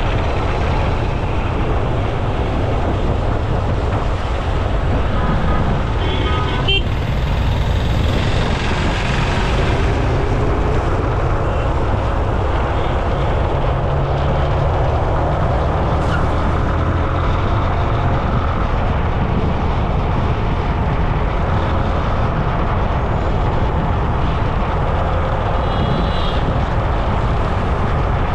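Steady, loud road noise heard while riding along a road: a constant low rumble of wind and tyres with passing traffic. There are short higher-pitched sounds about seven seconds in and again near the end.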